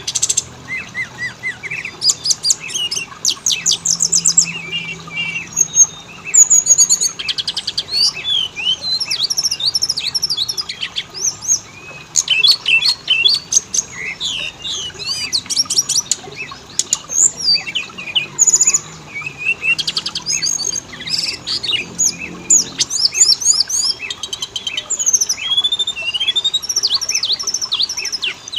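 Oriental magpie-robin singing a continuous, varied song of clear whistles, upslurred and downslurred notes, chirps and rapid trill runs, with hardly a pause.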